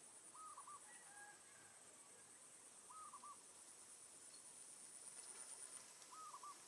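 Faint bird call: a short three-note phrase repeated three times, about three seconds apart, over a steady high pulsing insect buzz.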